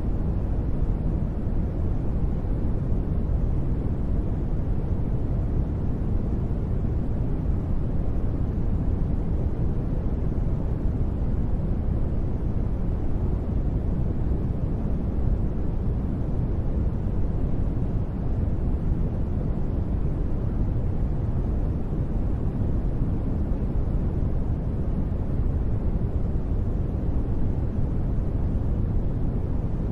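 Continuous sleep white noise: a steady, even hiss with no breaks, weighted heavily toward the low end so that it sounds deep and muffled, close to brown noise.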